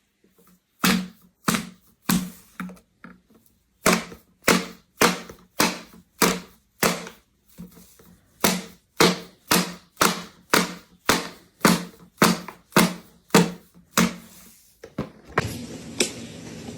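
Repeated sharp knocks or taps with a low thud, about two a second for some fourteen seconds, then a tinkling melody starting near the end.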